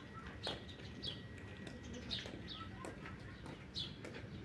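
Faint bird chirps: short, high notes falling in pitch, about one a second.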